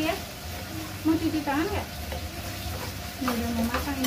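Sliced beef sizzling on a BBQ grill pan, with a few short clicks from utensils and voices talking in the background.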